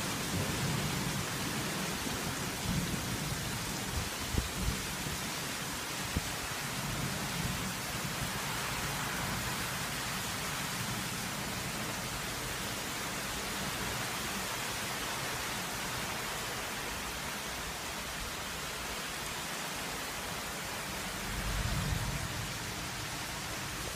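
Heavy rain falling steadily, a dense even hiss. There are a few short low knocks in the first several seconds, and a low rumble of thunder swells and fades near the end.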